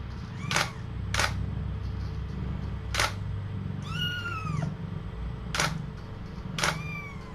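Five camera shutter clicks spread through a few seconds while a young kitten mews, a high, arching cry near the middle and again near the end.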